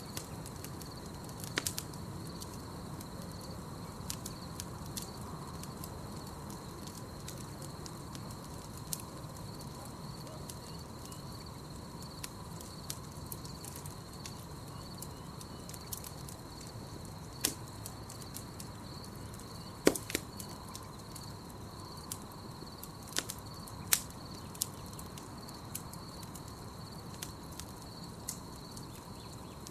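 Campfire burning, with scattered crackles and sharper pops of wood, the loudest pops about 20 and 24 seconds in, over a steady low rumble of the flames. A steady high trill of night insects runs underneath.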